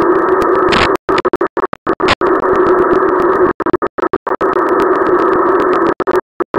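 TV static hiss, dull and muffled with a low hum in it, cutting out abruptly again and again in a stuttering glitch. About a second in and again about two seconds in it briefly turns brighter and sharper.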